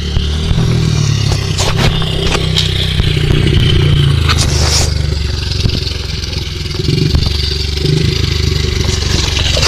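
Dirt bike engine running at fairly steady, low revs, with scraping and clattering over it.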